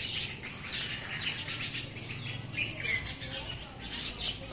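Small birds chirping over and over in short high calls, over a low steady hum.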